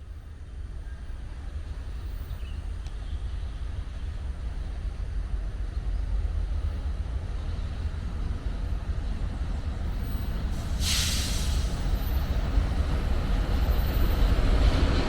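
Train approaching: a low rumble growing steadily louder, with a loud hiss setting in about eleven seconds in.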